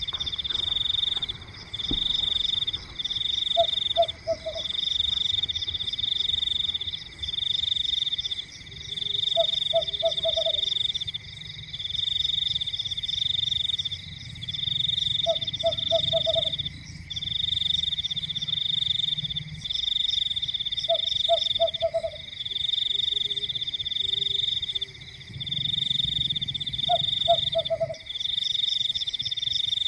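Night chorus of frogs and insects: a loud high trilling in bouts of about a second with short breaks, and a low croaking call of three or four quick notes repeated about every six seconds.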